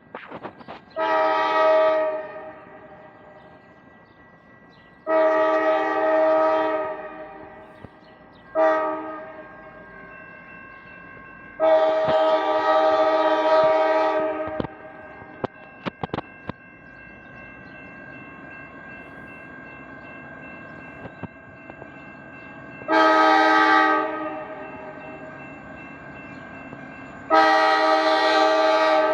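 Ohio Central SD40-2 diesel locomotive's air horn sounding the grade-crossing signal: two long blasts, a short one and a longer one, then two more blasts near the end.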